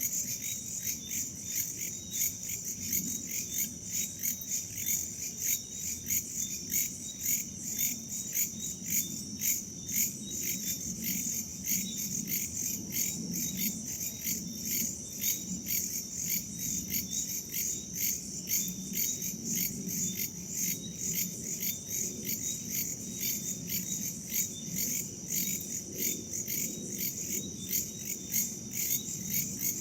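A chorus of crickets and other forest insects chirping in quick, even pulses over a steady high ring, with a soft low rush of wind rising and falling beneath.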